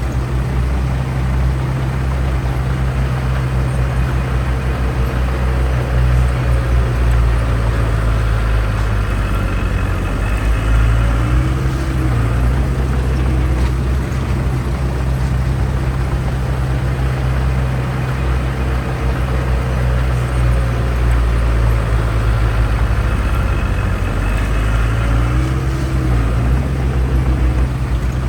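Diesel engine of heavy earthmoving equipment running steadily under load, its pitch rising briefly twice, once near the middle and once near the end.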